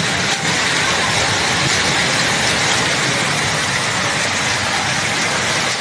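Heavy storm rain pelting a car's body and windscreen, a dense, steady hiss.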